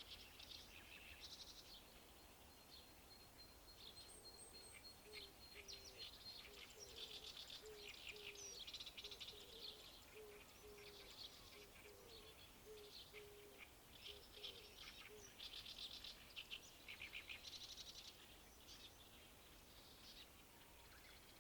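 Songbirds chirping and chattering in quick, dense phrases. Through the middle runs a faint series of short low notes, about two a second.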